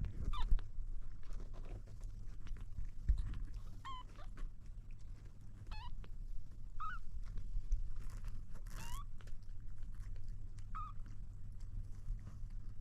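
Kitten mewing: about six short, high-pitched mews spaced a second or two apart.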